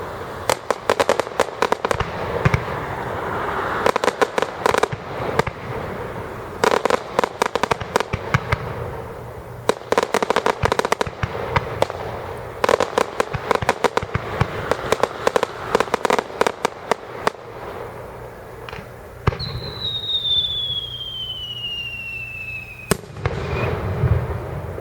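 Aerial fireworks: repeated volleys of rapid, dense crackling pops, each lasting a second or two with short gaps between. Near the end a single whistle falls steadily in pitch for about four seconds and is cut off by a sharp bang.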